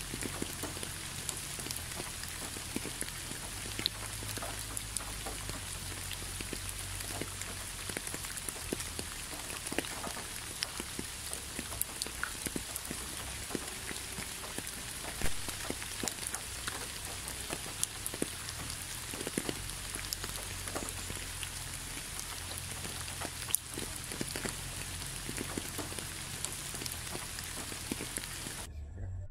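Steady rain with many individual drops ticking. It cuts off abruptly just before the end.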